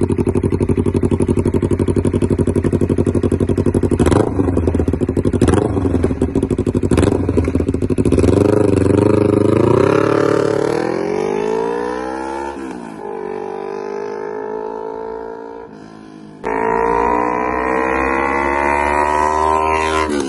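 Honda CBR250RR with an aftermarket Yakuza exhaust, running loud and steady at first with a few sharp cracks. It then revs up in long rising sweeps, drops back, and climbs sharply again near the end.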